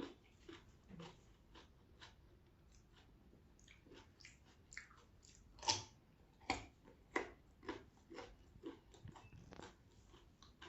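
A person chewing and biting crunchy vegetables close to the microphone: a string of short, sharp crunches. The loudest comes about halfway through, followed by a fairly even run of bites at about two a second.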